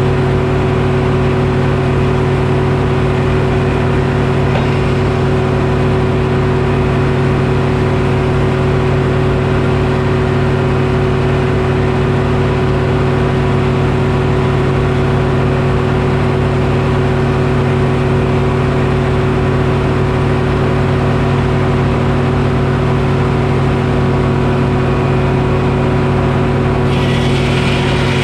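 Detroit Diesel engine powering a Frick sawmill, running steadily at constant speed. A higher hiss joins it shortly before the end.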